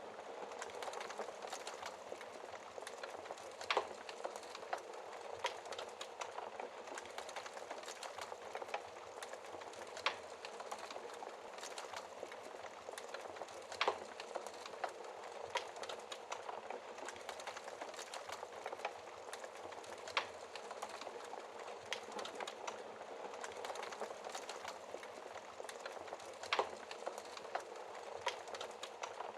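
Wood fire crackling in a fireplace: a steady hiss with a scatter of small crackles and sharper pops every few seconds.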